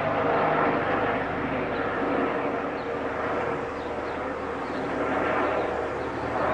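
Police helicopter flying past, its rotor and turbine noise steady and loud with a constant hum.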